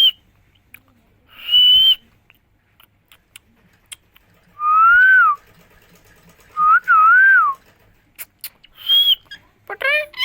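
Pet green parrot whistling: two short high whistles, then two longer warbling whistles that rise and fall in pitch, another short high whistle, and a rising call at the very end.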